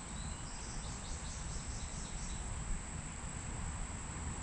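Insects trilling steadily at a high pitch, over a low rumble.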